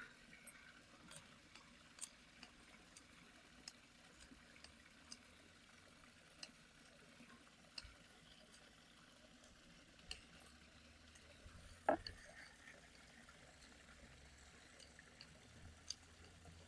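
Near silence with scattered faint ticks and clicks, one a little louder about twelve seconds in; a faint low hum comes in during the second half.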